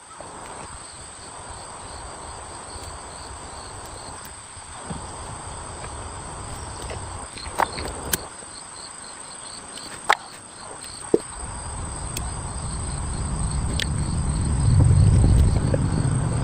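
Insects chirping in a steady, even rhythm over outdoor background noise, with a few sharp clicks or knocks. A low rumble swells in the last few seconds and is the loudest part.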